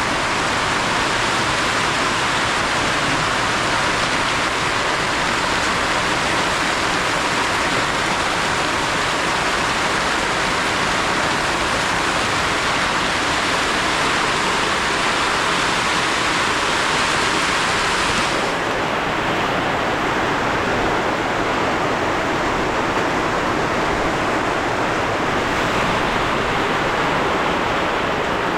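Heavy rain pouring down, a loud steady hiss. About two-thirds of the way through it turns duller as the highest part of the hiss drops away.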